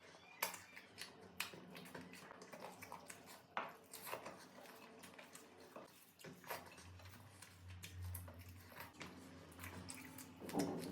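Close-up eating sounds: wet chewing and mouth clicks with small taps against a plate, faint and irregular. A brief louder voice-like sound comes near the end.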